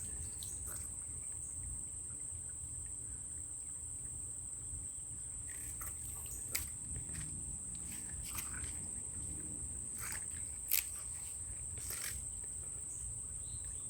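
Steady high-pitched insect chorus, with a low rumble underneath and a couple of short sharp clicks about six and eleven seconds in.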